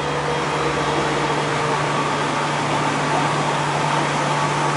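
MTR M-Train electric multiple unit running by: a steady mechanical rumble and hum with a faint whine that falls slightly in pitch over the first couple of seconds.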